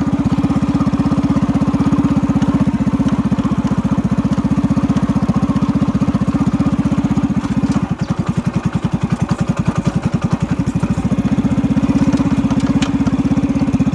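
Motorcycle engine running steadily through a Yamaha RX 100 silencer fitted with a homemade wire-mesh muffler insert, giving an even, rapid exhaust pulse that dips briefly about eight seconds in. The owner takes the insert to have silenced the exhaust.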